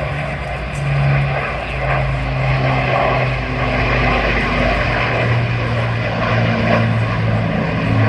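Avro Lancaster's four Rolls-Royce Merlin piston engines droning as the bomber flies past, a steady propeller drone whose pitch sinks slowly while it grows a little louder.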